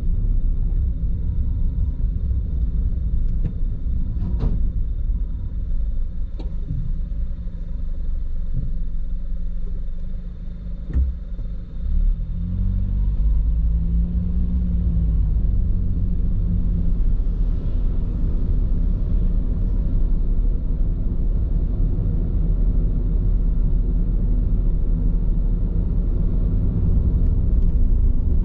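Steady low road rumble of a car on Bridgestone Regno tyres heard from inside the cabin while driving, with a few light knocks in the first half and a brief dip and wavering engine tone about halfway through.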